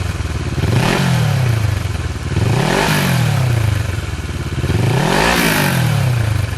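Kawasaki Versys 650 parallel-twin engine being revved, its pitch rising and falling about three times.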